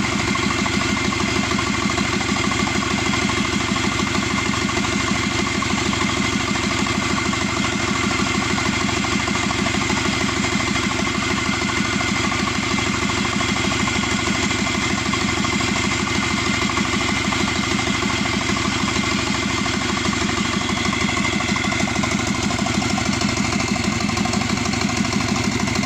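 Subaru EJ255 2.5-litre turbocharged flat-four engine, running on a stand out of its car, idling steadily with an even beat and a steady high whine over it.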